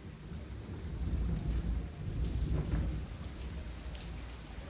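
Rain falling steadily, with a low thunder rumble swelling and fading beneath it.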